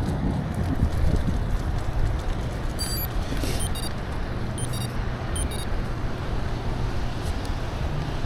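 Wind buffeting the microphone of a moving bicycle, a steady low rumble, with a few short high chirps about three to five seconds in.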